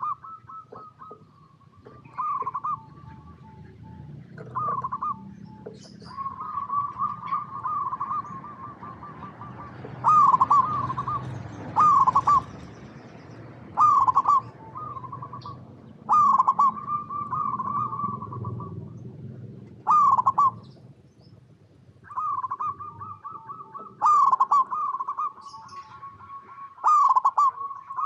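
Zebra doves singing their rippling, staccato cooing song, phrase after phrase every one to two seconds, the phrases sometimes overlapping. Brief high chirps sound above them, and a low rumble runs underneath.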